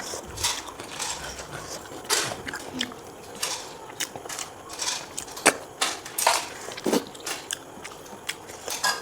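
Close-up mukbang eating sounds: a person eating snails and pork ribs in curry, with irregular sharp smacks and clicks about once or twice a second.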